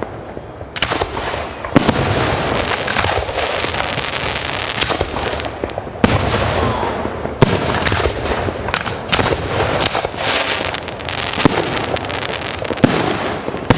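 Fireworks display: a rapid string of sharp bangs from bursting shells over a continuous crackle.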